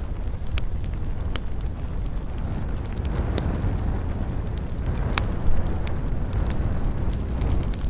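Wood fire burning in a fireplace: a steady low roar with scattered sharp crackles and pops, one louder pop about five seconds in.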